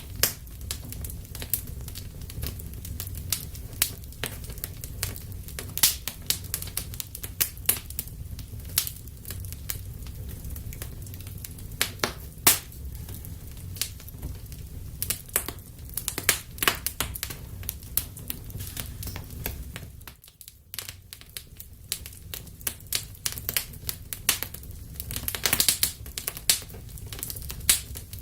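Wood fire burning in a fireplace, crackling with irregular sharp pops and snaps over a low steady rumble. The sound briefly drops away about two-thirds of the way through, and a thick run of crackles comes near the end.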